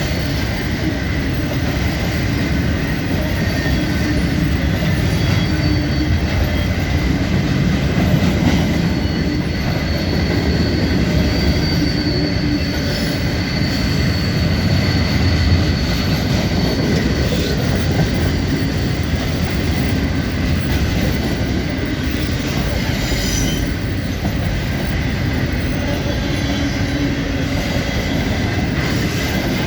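Freight cars rolling steadily past, with a constant rumble of steel wheels on rail and thin, high wheel squeal running over it.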